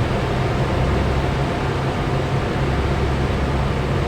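Cessna 172 cabin noise during a descent with the engine throttled back to flight idle and the propeller windmilling: a steady low engine drone under an even rush of airflow.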